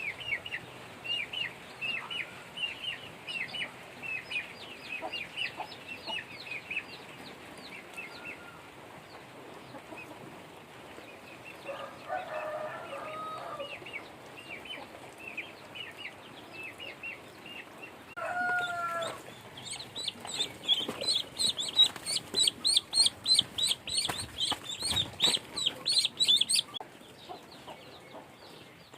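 Ducklings peeping: many short, high peeps in quick succession, louder and denser in the second half, with a couple of lower calls near the middle.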